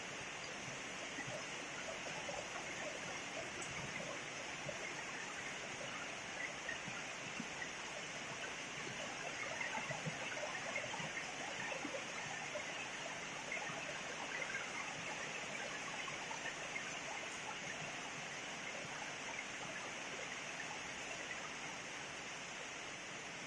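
Heavy rain falling steadily, a dense patter of close drop impacts, swelling slightly about ten seconds in.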